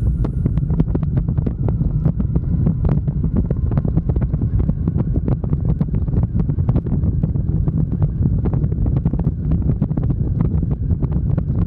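Wind buffeting the microphone of a moving motorcycle, a steady low rumble full of crackling pops.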